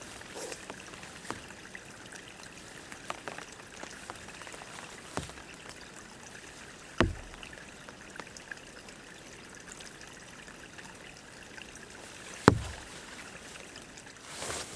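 Small forest stream trickling steadily. Over it come a few light clicks and two sharp knocks, one about halfway through and a louder one near the end.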